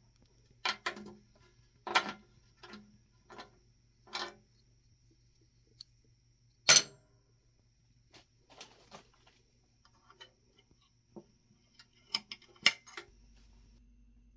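Irregular clicks and knocks of hard objects being handled, about a dozen in all, with one sharp louder knock about halfway through and a quick cluster near the end, over a faint steady low hum.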